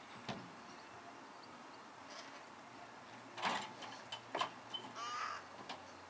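A bird calling outdoors: a few loud, harsh calls in quick succession in the second half, after a single click near the start.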